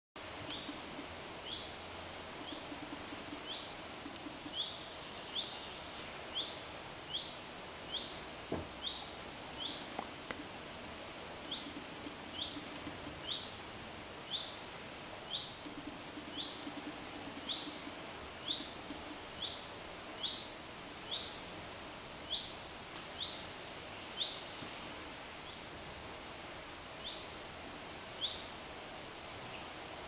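A bird giving a short, sharp, high call over and over, a little more than once a second, falling silent a couple of seconds before the end.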